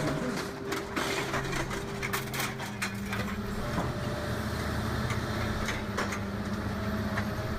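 Heavy hydraulic scrap machine working metal: a steady engine and hydraulic hum under a dense run of cracking, crunching and snapping metal.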